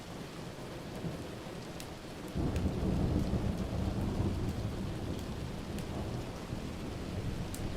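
Steady rain with a low thunder rumble that swells suddenly about two and a half seconds in and keeps rolling. Scattered sharp crackles sound over it.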